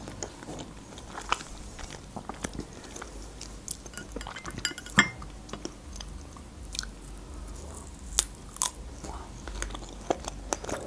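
Close-miked chewing and mouth sounds of someone eating fresh strawberries, with scattered wet clicks and smacks, the loudest about five seconds in.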